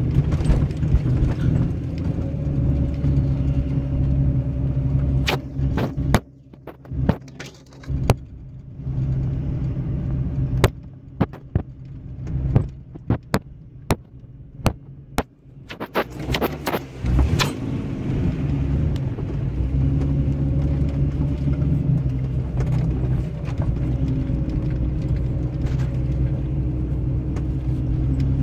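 Old Jeep's engine running steadily at low speed from inside the cab as it crawls along a rough dirt trail. About six seconds in, the engine sound drops away for roughly ten seconds while a string of sharp clicks and knocks sounds, then the steady engine sound comes back.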